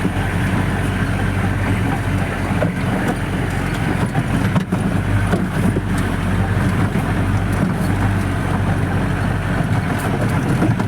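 Off-road jeep's engine running steadily under load, heard from inside the jeep, with scattered knocks and rattles as it jolts over a rough track.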